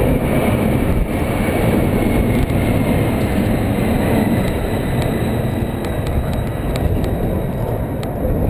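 Steady rumbling jet noise of the Boeing 747 Shuttle Carrier Aircraft, carrying the Space Shuttle Enterprise, on a low pass, with a faint falling whine in the first few seconds.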